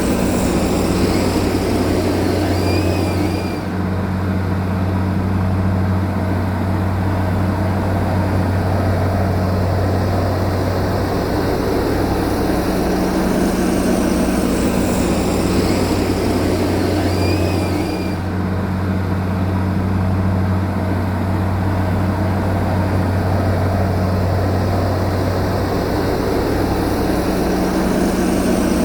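Heavy diesel engine of earth-moving machinery, likely a bulldozer, running steadily with a constant low hum. A slight dip in loudness recurs about every 14 to 15 seconds.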